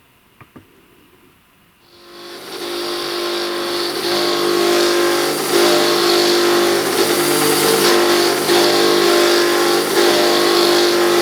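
A couple of small clicks, then the electric motor of a homemade belt grinder spins up about two seconds in and runs steadily and loudly with a strong steady hum and belt hiss.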